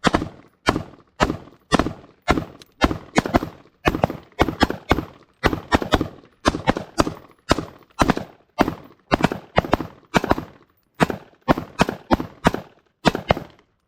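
A suppressed .22 pistol fired in a long, steady string, about two to three shots a second, each crack followed by a short fading tail. The string stops shortly before the end.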